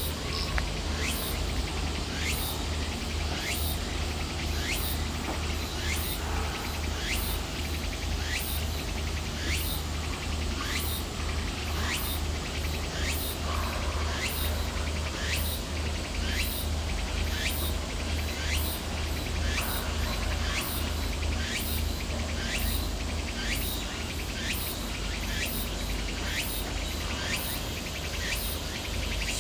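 Insects calling in a steady, even rhythm, each call a quick falling chirp, about one and a half a second, over a low steady rumble.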